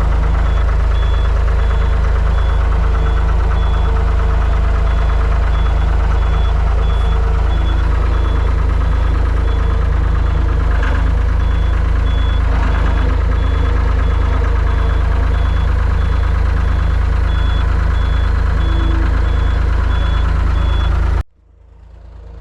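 Diesel skid steer engine running steadily at idle while warming up, with a high-pitched electronic beep repeating in short even pulses. The sound cuts off abruptly near the end.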